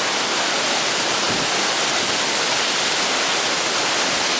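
Waterfall: falling water rushing in a loud, steady noise.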